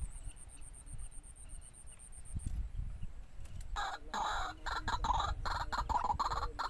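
Low rumbling noise, then about four seconds in a waterhen starts calling: a fast run of harsh, pulsing notes with short breaks between them.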